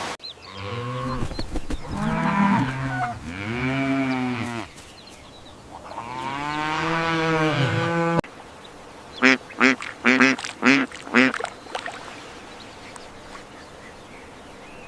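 Animal calls: a few drawn-out, arching calls, then a run of five short, loud calls in quick succession.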